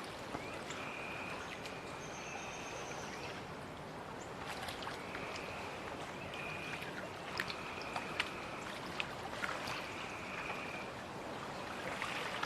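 Steady rushing of a flood-stage river. Faint high trills, each about a second long, come several times over it, along with a few light clicks.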